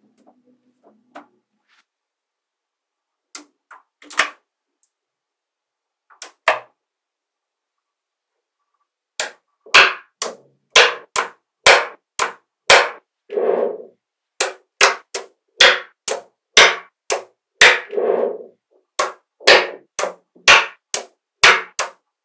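Small magnetic balls clicking as they snap together: a few scattered clicks at first, then from about nine seconds in a quick run of sharp clacks, two or three a second, some followed by a short rattle.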